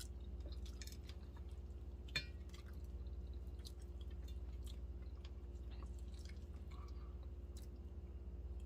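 Faint chewing and mouth clicks of people eating smoked chicken, with one sharper click about two seconds in, over a steady low hum.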